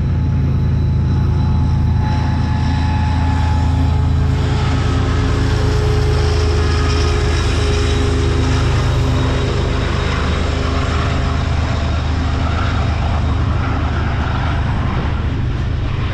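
A diesel-hauled freight train passing close by: the deep rumble of the diesel locomotives with a few steady engine tones, then after about four seconds the steady rolling noise of the freight cars' wheels on the rails.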